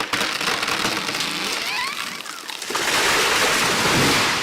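A felled tree's leafy crown rushing and crashing through the branches as the tree goes over: a loud rushing noise in two swells, the second the louder, with short creaks near the middle.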